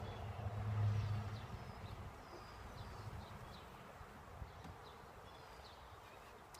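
Honeybees buzzing around an open hive, with birds chirping now and then. A louder low hum fades away over the first two seconds.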